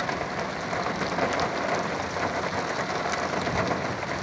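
Heavy thunderstorm rain falling steadily as a constant hiss, with a few sharp drop ticks close by.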